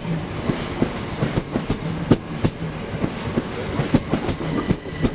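Class 375 Electrostar electric multiple unit passing, its wheels clicking over rail joints several times a second in an uneven rhythm above the steady rolling noise.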